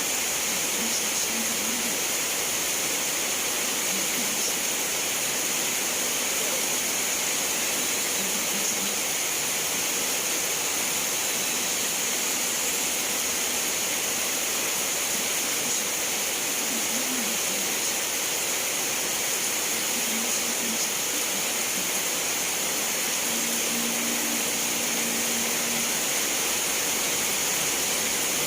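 Steady rainfall, an even, unbroken hiss. A few faint, short low calls sound through it now and then, the longest near the end.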